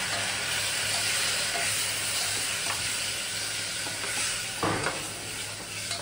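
Fresh lablab beans (pavta) sizzling in hot oil and spices in a steel pressure cooker while a spatula stirs them, with scraping strokes against the pot. The sizzle eases off a little, and one spatula stroke near the end is louder than the rest.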